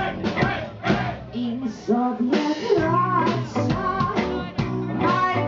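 Live rock band: a singer's vocal line over electric guitar and drums.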